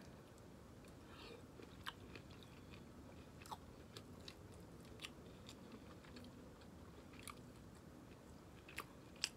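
Faint, close-miked chewing of a soft stuffed bell pepper: wet mouth clicks and smacks scattered about once a second, with a sharper click near the end.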